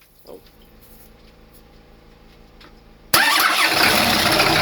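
Isuzu DA120 marine diesel starting cold, without pre-warming. After about three seconds of quiet the engine suddenly bursts into loud, steady running.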